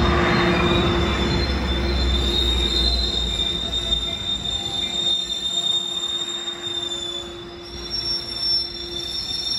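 Sounder commuter train's bilevel passenger coaches rolling past with a steady high-pitched wheel squeal over a low rumble. The rumble fades after about four seconds while the squeal carries on.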